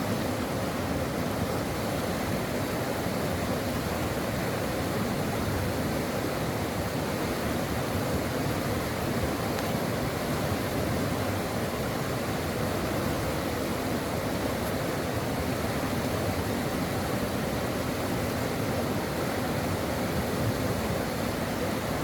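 Brook water running: a steady, even rush with no breaks or separate events.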